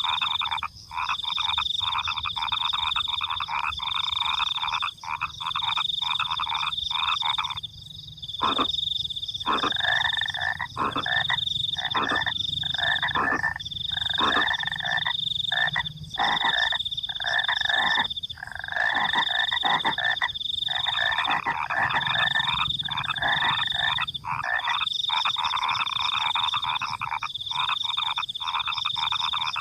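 A night chorus of frogs croaking in fast pulsed bursts with short gaps, over crickets trilling in repeated high-pitched stretches of about a second each.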